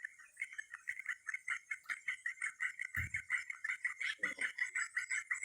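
Rapid, steady pulsed chirping from a small calling animal, about six even pulses a second, with a soft low thump about three seconds in.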